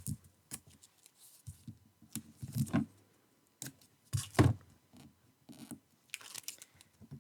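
Paper and card being handled on a craft table: scattered rustles and light taps, with two louder knocks about two and a half and four and a half seconds in.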